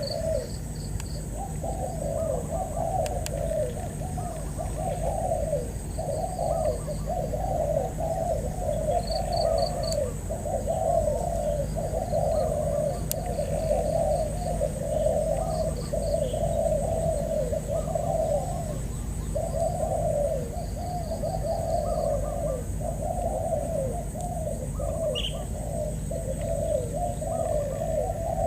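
Spotted doves cooing over and over, phrase after phrase with hardly a pause. Short high chirps come now and then, over a steady high whine.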